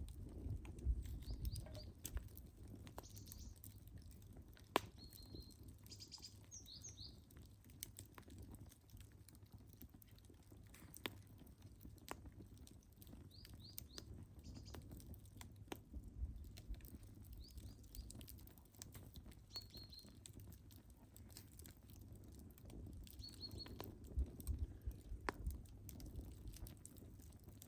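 Wood fire crackling: scattered sharp pops and snaps over a low rumble. Short bird chirps come in now and then.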